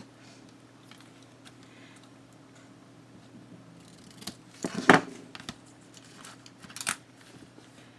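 Scissors snipping through a strip of washi tape to trim it narrower: after a few quiet seconds comes a quick cluster of snips a little over halfway in, the loudest sound here, then one more short snip near the end.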